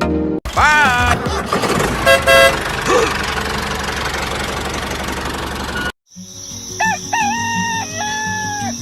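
Traffic noise with a couple of short car-horn honks about two seconds in. After a sudden cut, a steady cricket trill with a rooster crowing, its last note held.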